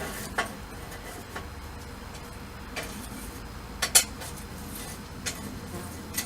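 A few light metallic clinks and knocks of steel being handled, the loudest pair about four seconds in, over a low steady background noise.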